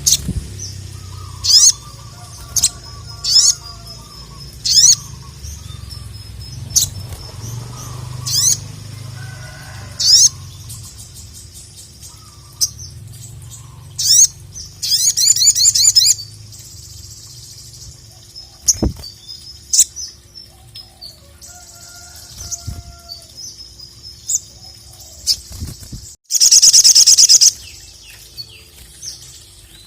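A sogon (little spiderhunter) singing: sharp high calls repeat about every second and a half, broken by a rapid trill in the middle and a loud, dense trill near the end.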